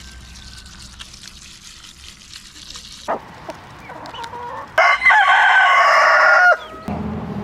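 A rooster crowing once, a loud call of under two seconds about five seconds in, after a short quieter cluck-like call at about three seconds.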